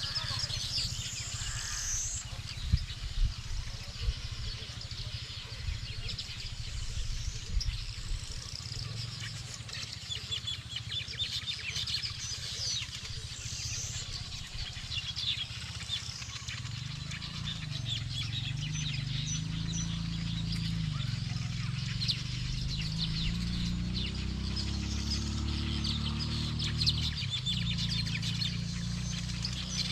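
Many small birds chirping and twittering in bush, in a dense chorus of short high calls. There is a low rumble underneath, and from about halfway a low drone that wavers up and down in pitch.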